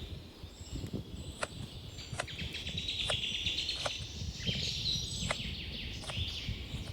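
Small birds chirping busily in a dense chorus, with a sharp click about once a second and a low rumble underneath.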